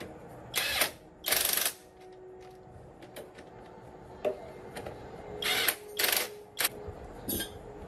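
Workshop tool sounds: four short bursts of hissing, two in the first two seconds and a close pair about six seconds in, with scattered clicks and knocks between them.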